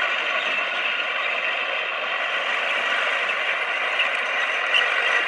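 Komatsu D20P bulldozer working, a steady mechanical clatter of its running gear and engine, with a few small clicks near the end.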